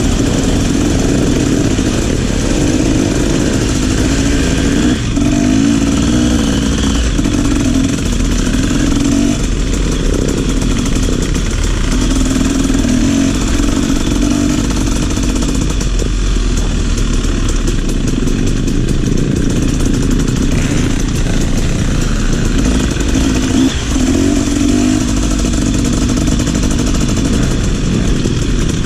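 Trail motorcycle engine running as the bike is ridden, its note swelling and shifting now and then with the throttle.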